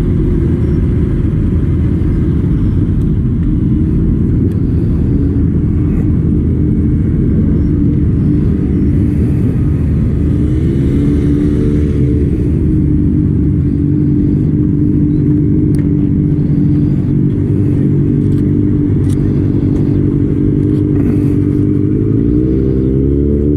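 Motorcycle engine running steadily, its pitch rising and falling with the throttle about ten seconds in and again near the end.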